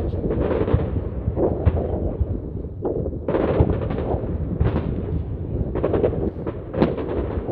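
Aerial fireworks display: a dense, irregular barrage of bangs and booms over a continuous low rumble.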